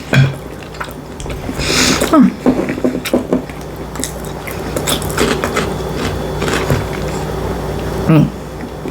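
A person eating up close: wet mouth and chewing smacks and clicks, with two short wordless hums, over a steady low hum.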